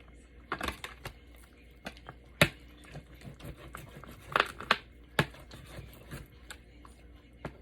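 Knife cutting raw chicken thighs on a cutting board: a few irregular knocks of the blade hitting the board, with soft handling sounds between, the loudest about two and a half seconds in.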